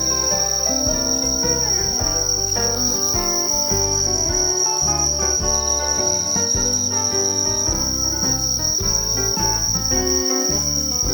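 Crickets trilling in one steady high unbroken tone, over background music of changing melodic notes with a bass line.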